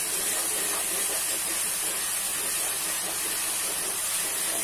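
Ground chilli spice paste sizzling steadily in hot oil in a wok as it is stirred with a wooden spatula, the paste sautéing until cooked.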